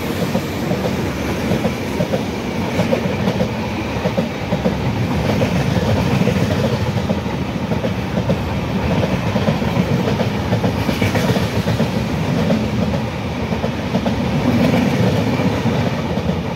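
Passenger train coaches rolling past at speed: a steady loud rush of rumble, with the wheels clattering rapidly on the rails.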